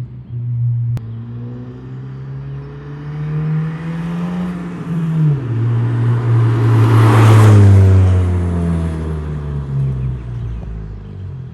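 Exhaust of a Honda Civic hatchback's 1.5-litre turbocharged four-cylinder, straight through with the muffler and resonator deleted, accelerating: the revs climb, drop sharply about five seconds in at an upshift, then climb again. The sound is loudest about seven seconds in and fades toward the end.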